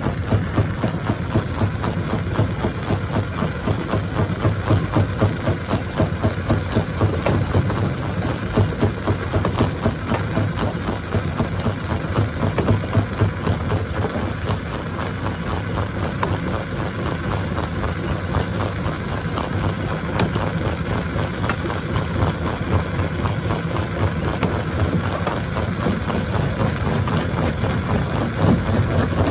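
Heavy diesel engine of machinery at a stone-crushing site running steadily, with a rapid, even pulsing.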